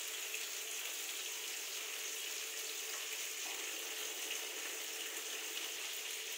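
Potato pieces frying in hot refined vegetable oil: a steady, even sizzle.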